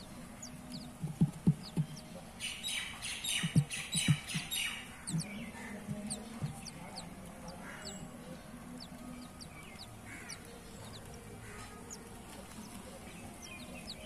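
Small birds chirping, with short high chirps throughout. About two and a half seconds in there is a rapid, loud chattering burst that lasts a couple of seconds, and a few low thumps come in the first half.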